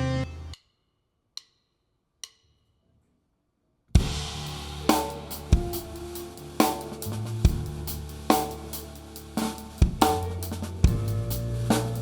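Live rock band: a held chord cuts off, then near silence broken by two sharp clicks, and about four seconds in the full band starts. The drum kit is loud, with regular kick and snare hits and cymbals over bass and guitar.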